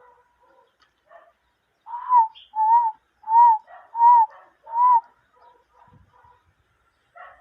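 Dove cooing: five loud, evenly spaced notes, each rising and falling in pitch, about two seconds in.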